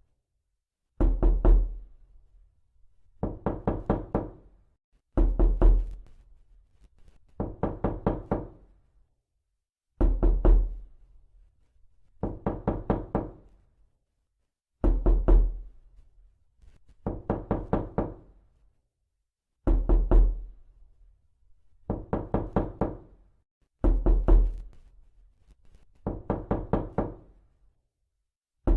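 Loud knocking, repeated in quick bursts of about five raps each, one burst roughly every two seconds with short silences between.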